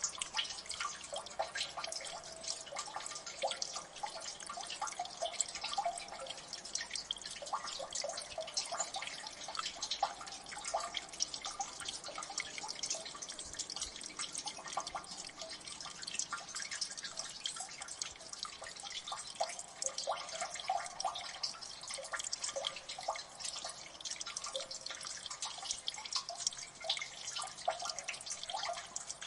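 Water dripping in a gully: many irregular, rapid drops plinking onto water and rock, over a faint steady trickle.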